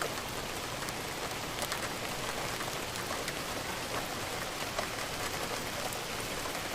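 Rain falling steadily, a continuous patter with scattered individual drops.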